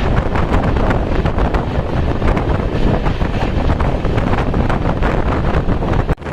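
Wind buffeting the microphone of a camera held at a moving train's open door or window, mixed with the train's running noise, a loud, steady rush with constant crackle. It drops out for a moment just before the end.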